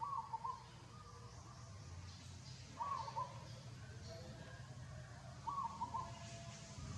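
A short animal call repeated three times, about every two and a half seconds, each call a quick run of two or three pulses, over a steady low hum.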